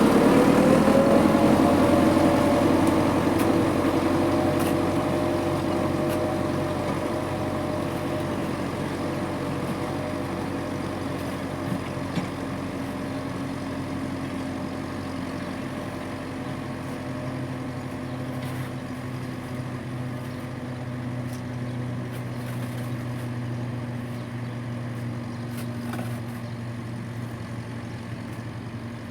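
Tractor engine running steadily, its sound fading gradually.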